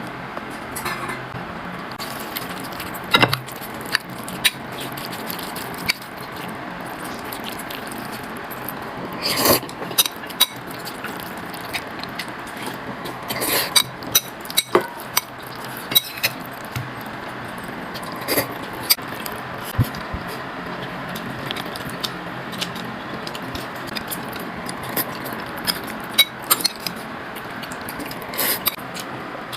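Scattered light clinks and clatters of tableware, a few at a time, over a steady background hiss.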